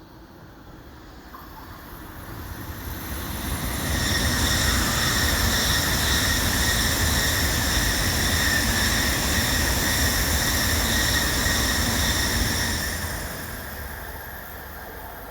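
Electric train passing by: a rumble with a steady high whine builds over about four seconds, holds, then fades away near the end.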